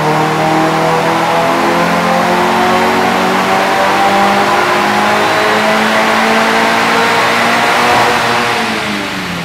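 VW MK7.5 GTI's turbocharged 2.0 L four-cylinder, running an IS38 turbo, doing a full-load dyno pull. The engine note climbs slowly and steadily, then drops in pitch and eases off near the end.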